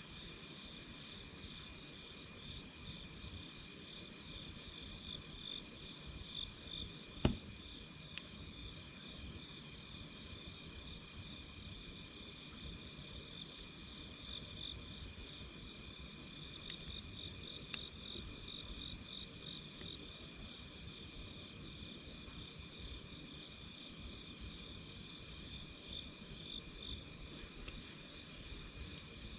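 Campfire crackling with scattered sharp pops, one loud pop about seven seconds in, over a steady high pulsing chirr like night insects.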